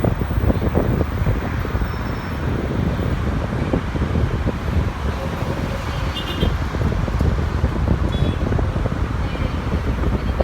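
A steady low rumble with wind buffeting the microphone.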